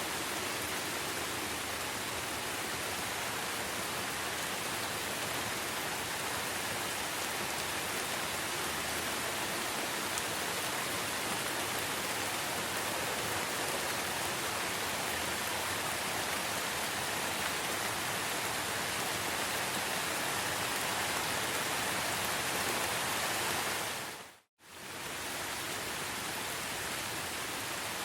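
Steady rain falling in a forest, an even hiss of many drops. About three seconds before the end it fades out to silence for a moment and straight back in.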